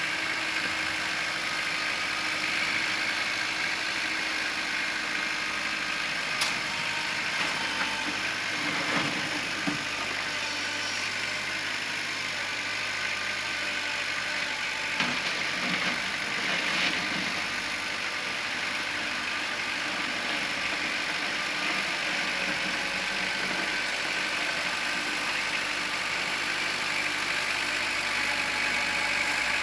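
Kubota L4600 tractor's diesel engine running steadily, with a few sharp knocks heard between about six and seventeen seconds in.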